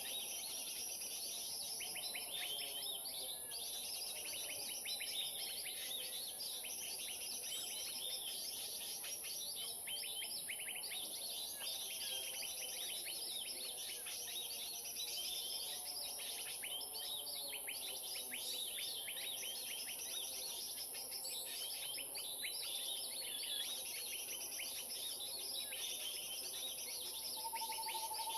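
Dense, continuous chatter of many small birds calling at once: a 'keributan' (commotion) lure recording played to draw wild birds in, with a steady high hiss above it.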